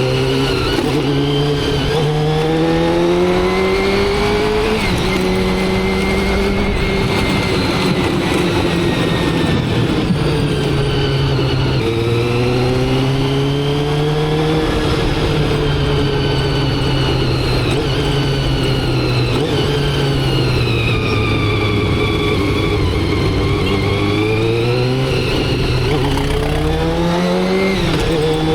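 Motorcycle engine running under way. Its pitch climbs and falls with the throttle several times and drops sharply twice, as at a gear change. A steady rush of wind and road noise runs underneath.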